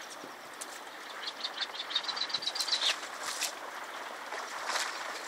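Steady rush of a fast-flowing river, with a bird calling a quick run of high chirps about a second in that lasts nearly two seconds, followed by a couple of short sharp sounds.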